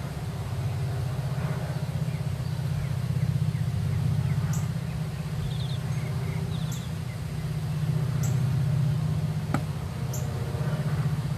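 A steady low engine hum runs throughout, with a few short bird chirps and one sharp click over it.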